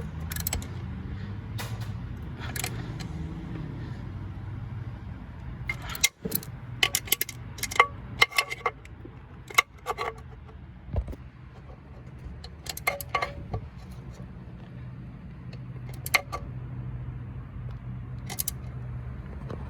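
Irregular sharp metallic clicks and clinks of hand tools, a ratchet working on the flywheel bolts, over a low steady hum.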